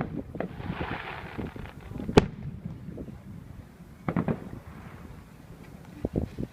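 Aerial fireworks bursting: separate sharp bangs, the loudest about two seconds in, with quick clusters of reports around four and six seconds and a brief crackling fizz about a second in.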